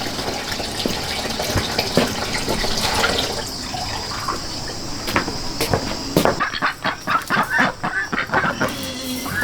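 Steady rush of running water, giving way about six seconds in to chickens clucking with short, rapid, repeated calls.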